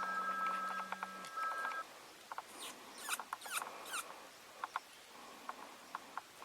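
Bird distress squeals blown on a diaphragm predator call: a run of high squeaks and sharp downward-sweeping squeals, then short scattered chirps. A steady high two-note tone sounds for the first couple of seconds.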